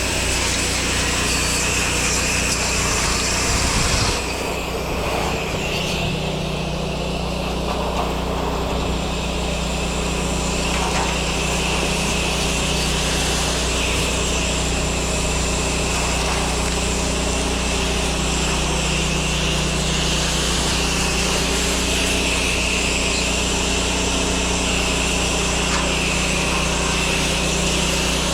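Pressure washer running steadily, its motor humming under the hiss of the water jet on a surface; the spray hiss eases briefly about four seconds in, then picks up again.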